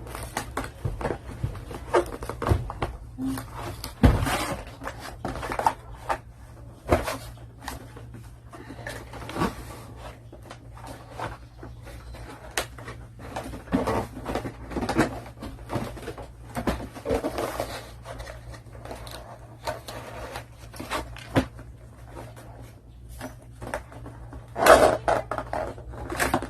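Unpacking a notebook cooling stand from its box: a string of irregular clicks, knocks and rustles of handled packaging, with a louder rustle near the end. A steady low hum runs underneath.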